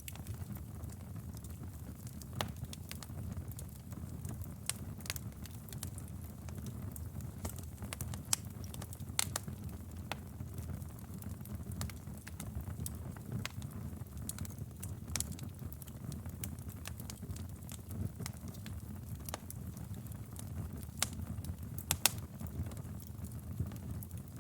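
Wood fire crackling in a fireplace: a steady low rumble of burning with scattered sharp pops and snaps, a few louder ones about eight, nine and twenty-two seconds in.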